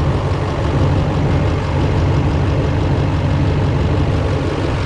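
Diesel pickup truck engine idling steadily with a deep, even rumble, running so it can be checked for crankcase blow-by; none is evident.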